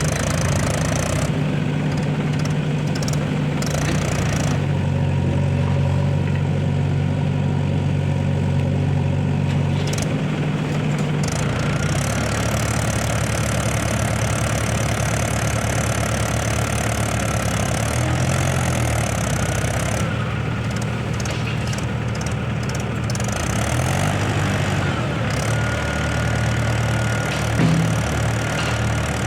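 Heavy diesel engine running steadily, its note dropping about twelve seconds in, with a brief louder bump near the end.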